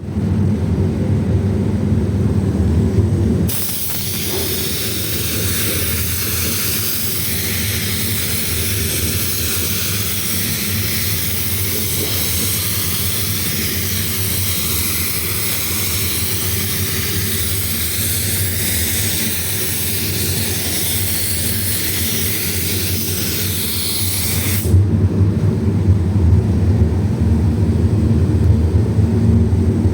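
Air spray gun spraying paint on a car door: a steady hiss starts about three and a half seconds in and cuts off sharply near the end. Underneath it, a steady low machine hum runs throughout, louder while the gun is off.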